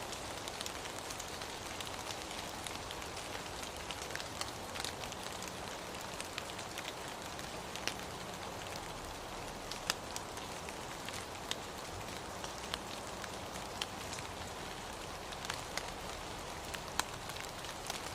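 Steady rain falling, an even hiss with scattered sharp taps of individual drops striking nearby surfaces.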